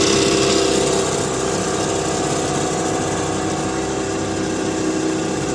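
Small 3 hp Evinrude two-stroke outboard motor running steadily, pushing the boat along; it eases slightly about a second in.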